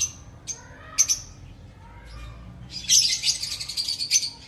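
Lovebirds chirping: a few short, sharp high calls in the first second, then a dense burst of rapid chattering for about a second and a half.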